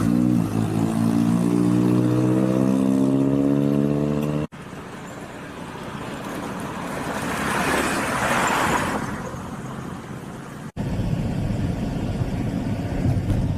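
Vehicle sounds in three cut-together clips. First an engine drones steadily with a strong low hum. Then a vehicle passes, its noise rising and fading away, and then a steady low rumble.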